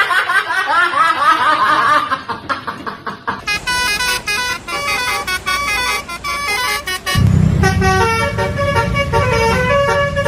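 Bus 'telolet basuri' multi-tone horn playing a tune in stepped notes, after a few seconds of warbling tones. A low engine rumble joins about seven seconds in.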